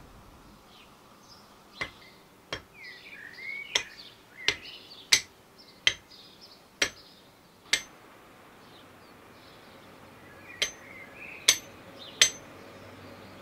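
A series of about eleven sharp knocks at irregular intervals, most between two and eight seconds in and three more near the end, with small birds chirping between them.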